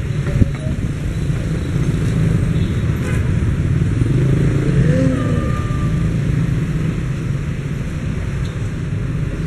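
Container freight train's wagons rolling away on the rails, a steady low rumble with a couple of clacks near the start and a brief higher whine about five seconds in.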